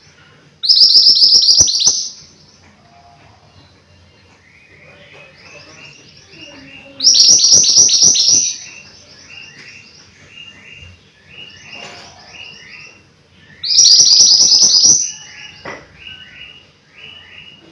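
Mantenan gunung songbird singing vigorously: three loud bursts of fast, rapidly repeated high notes, about six seconds apart, with softer runs of short, evenly spaced chirps between them.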